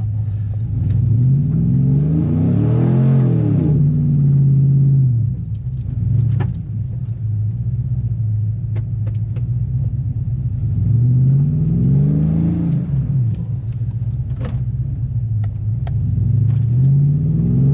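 Chevrolet Silverado pickup engine revving up and dropping back three times as the truck is driven through deep snow, trying not to get stuck, with traction control switched off.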